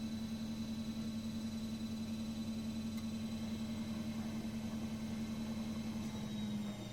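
Miele Professional WS5436 washing machine running with a steady motor hum and a slight pulsing in loudness. The hum's pitch sags a little near the end as the motor changes speed.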